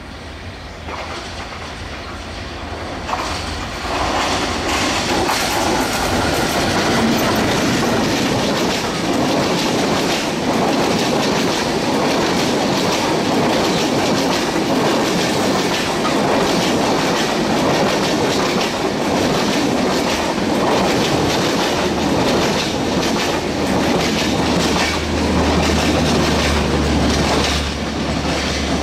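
WDM-3A Alco diesel locomotive hauling a passenger train, growing louder over the first few seconds as it comes up. The long rake of coaches then rushes close past with a steady clickety-clack of wheels over the rail joints. A low steady hum joins near the end.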